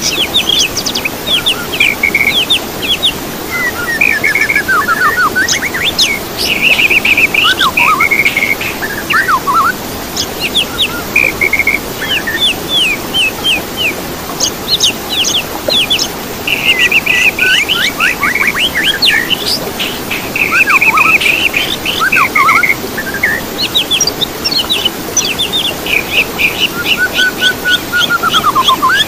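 Songbirds singing in a dense, unbroken chorus of quick chirps, rising and falling whistles and fast trills, over a steady hiss.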